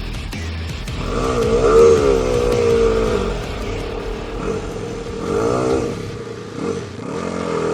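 Off-road motorcycle engine revving up and falling back twice, once about a second in and again past the middle.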